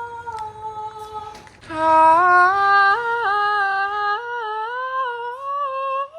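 A female voice humming a tune without words in long held notes that step up and down, soft at first and louder from about two seconds in.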